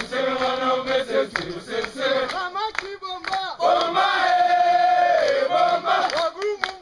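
A group of mountain porters singing and shouting together, with a long note held through the second half.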